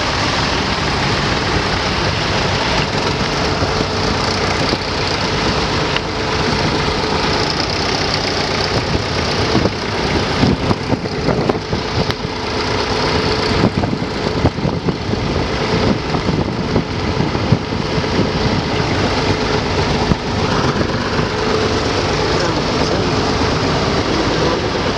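Tractor engine running steadily, with scattered sharp knocks and clatter between about ten and eighteen seconds in.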